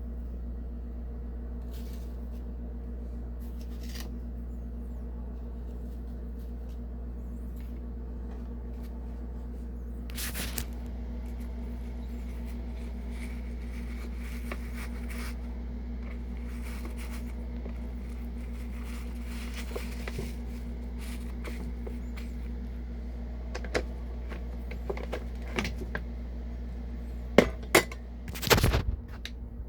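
Philips Senseo pod coffee maker running with a steady low buzz, with a scatter of sharp clinks of crockery near the end.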